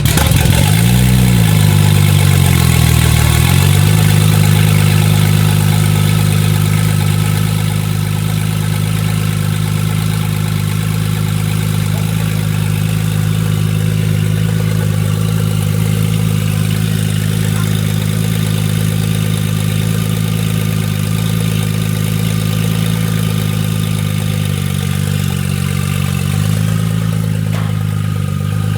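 Tuned Audi S4 B5's 3.0-litre twin-turbo V6 just after start-up. The revs flare and dip in the first few seconds, then settle into a steady idle.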